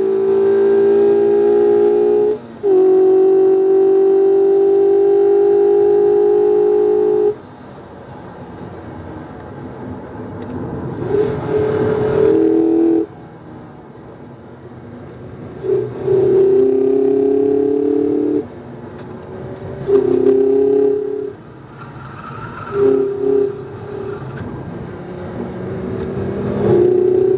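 The inline-four engine of a 2019 Mazda MX-5 RF, heard from inside the cabin while driven hard. A long pull with the engine note slowly rising, dipping briefly about two and a half seconds in, is cut off by a lift off the throttle about seven seconds in. Several shorter bursts of throttle follow, separated by quieter lifts.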